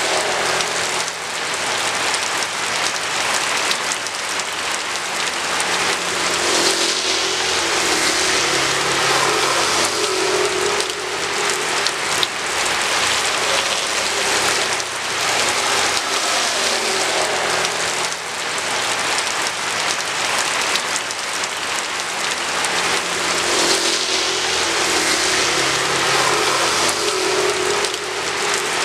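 Steady heavy rain falling and pattering on a hard surface, with the low hum of vehicles passing on the road swelling up under it twice.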